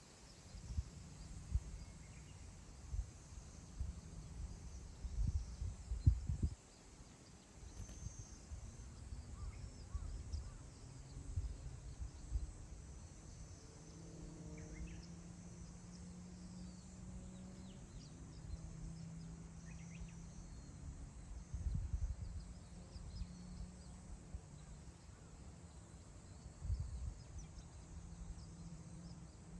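Wind gusting across open grassland, buffeting the microphone in uneven low rumbles that swell and ease, with a few faint, short bird chirps above. A faint low drone runs through the middle.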